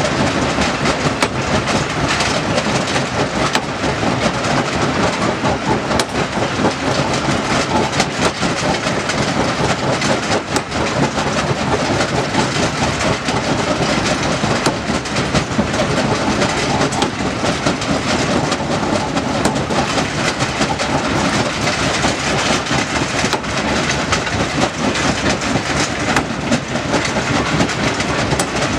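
Heavy machinery working stone: a steady, loud mechanical clatter and rattle with frequent sharp knocks of rock striking rock and metal.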